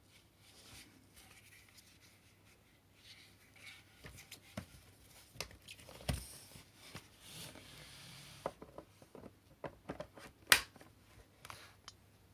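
Handling noises from the parts of a cordless stick vacuum while it is switched off: soft rustling with scattered light taps and clicks, and one sharp click about ten seconds in.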